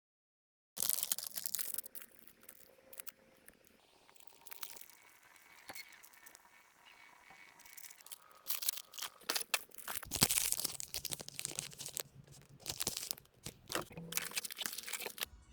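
Plastic wrapper of a gummy jelly packet being torn open, with a sharp burst of tearing about a second in, then softer rustling and louder crinkling of the plastic in the second half.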